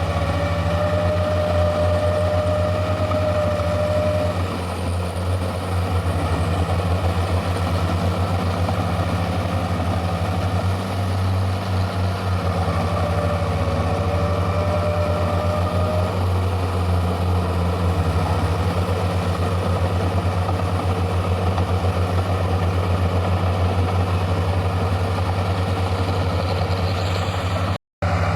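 Hand tractor engines running steadily with a low, pulsing chug. The sound drops out for a split second just before the end.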